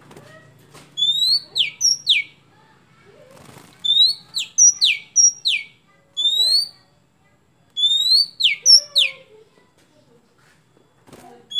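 Oriental magpie-robin (kacer) singing: four loud repeated phrases, each a rising whistle followed by two or three quick, sharply falling notes.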